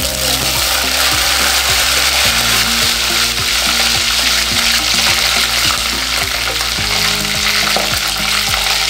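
Curry leaves and green chillies frying in hot oil with cumin and fenugreek seeds in a clay pot: a loud, steady sizzle.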